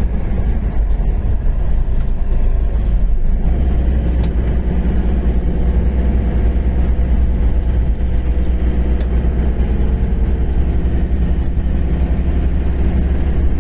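Steady engine and road noise of a moving road vehicle: a deep continuous rumble with an even engine note over it.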